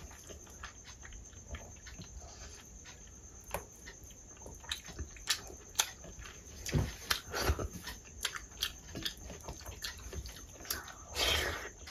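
Chewing a mouthful of rice with dal and fish curry: many short wet clicks and lip smacks, with squelching of fingers mixing rice into the dal on a steel plate. A longer, louder wet sound comes near the end.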